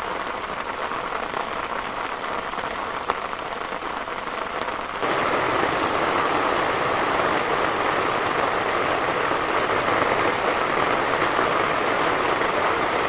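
Heavy rain falling as a steady hiss of drops, which jumps abruptly louder and fuller about five seconds in.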